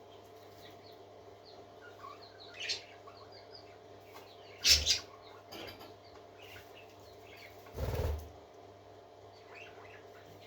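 Parakeets chirping and twittering in short, quick calls, over a steady low hum. Two short, louder bursts break in, one about halfway through and one about eight seconds in.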